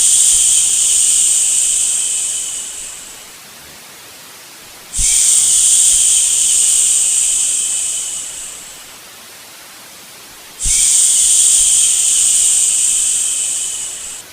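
Long 'shhh' shushing sounds, each starting suddenly and trailing off over about three seconds, repeating about every five and a half seconds (twice more after the opening one), over a steady, quieter white-noise hiss for lulling a baby to sleep.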